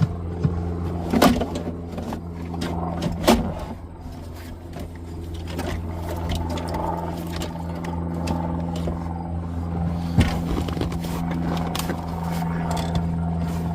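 Dashboard parts being handled and fitted during reassembly: a few sharp knocks and some scraping, three of the knocks standing out, over a steady low hum.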